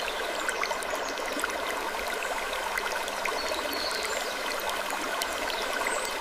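Slow, squeaky wood creaks, one about four seconds in and a fainter one near the end, over a steady rushing hiss like running water, dotted with many faint ticks.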